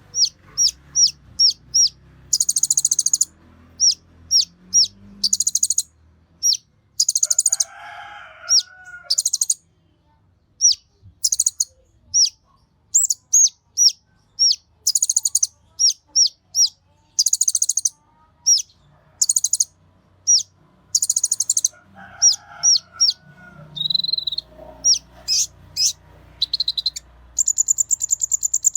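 Konin songbird singing: a rapid run of sharp, high down-slurred chips broken by short buzzy rattles, with a fast, even high trill near the end.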